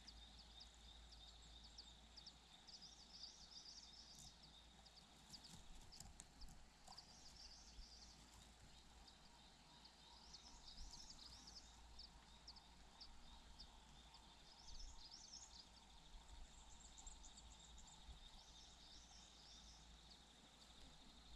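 Faint outdoor ambience with scattered high bird chirps throughout, over a steady faint high buzz and a low rumble.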